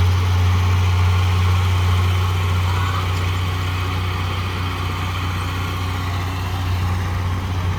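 Heavy diesel engine of earthmoving equipment running steadily with a deep, even hum.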